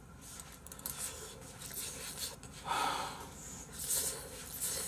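A person chewing a mouthful of fried rice and breathing through the nose, with a light scrape of a metal spoon in the bowl.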